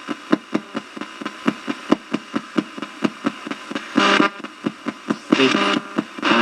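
Spirit box sweeping through radio stations: a fast, even train of clicks, about five a second, broken near the end by short bursts of chopped radio voice fragments, which the listener takes as a spirit answering.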